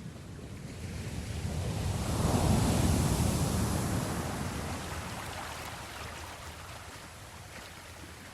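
Ocean wave rolling in and breaking, swelling to a peak about three seconds in and washing back out over the next few seconds.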